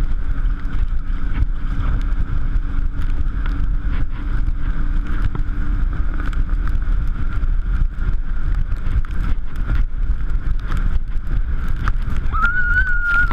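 Speedboat engine running steadily under way, with heavy wind buffeting on the microphone. A brief high-pitched tone comes in near the end.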